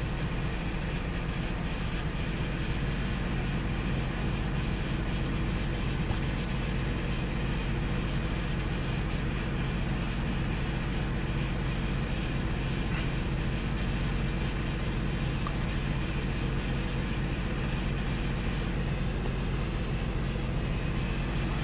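2002 Ford Explorer engine idling, running rough with a very bad misfire, which the mechanic suspects comes from a fuel delivery problem. The sound is steady throughout.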